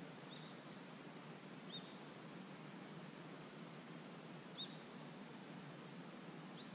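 A bird chirping four times, each call short and high, over a faint steady outdoor background hiss.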